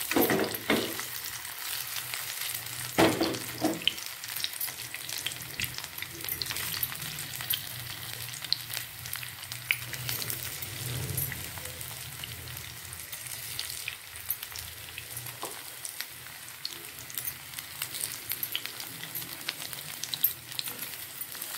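Spiced raw banana slices sizzling as they shallow-fry in a little oil in a nonstick pan, a steady crackle with many small pops of spattering oil.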